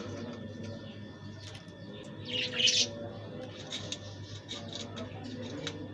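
Pet budgerigars chirping and chattering, with a louder burst of calls about two and a half seconds in.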